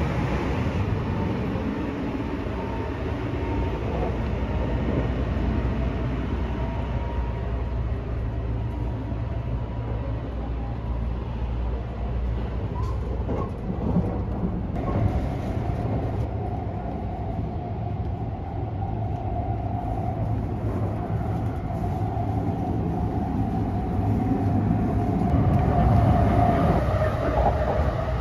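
Running noise of the 285-series Sunrise Izumo sleeper train heard from inside the car: a steady low rumble of wheels on rail, with a couple of light knocks about halfway through and a whine that grows louder near the end.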